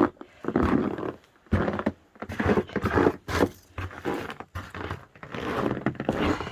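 Footsteps crunching and scraping through deep snow, coming irregularly about once a second.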